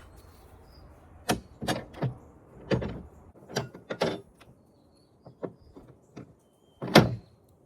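A series of about nine irregular knocks and clunks of hard objects being handled, the loudest a sharp one near the end.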